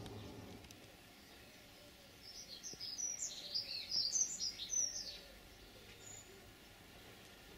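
A songbird sings one quick phrase of high chirps and whistles lasting about three seconds, starting about two seconds in and loudest in the middle, over faint outdoor background noise.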